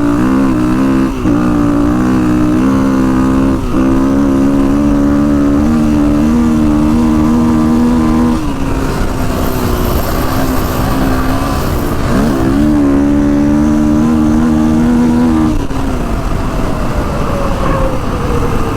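Kawasaki KX450X's four-stroke single-cylinder engine under way, climbing in revs through a few quick gear changes and then holding steady. It eases off about eight seconds in, pulls again around twelve seconds, and winds down with a falling pitch near the end.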